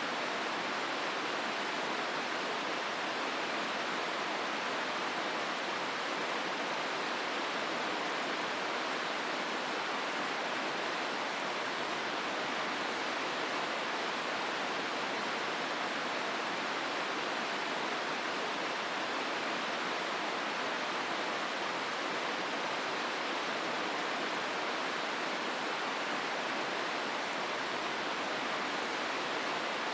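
Steady rushing of river water flowing through the Hozu River gorge, one even wash of sound with no changes or separate events.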